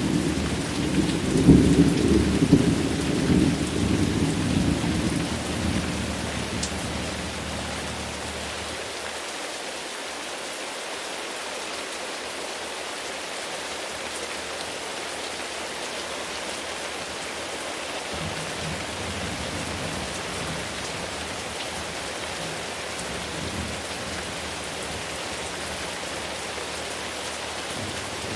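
Steady rain with a roll of thunder: a loud low rumble in the first few seconds that fades away over several seconds. A fainter rumble of distant thunder comes later, about two-thirds of the way through.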